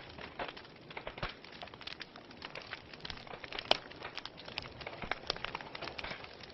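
Wood fire crackling: irregular pops and snaps over a soft, steady hiss, with one sharper pop a little past halfway.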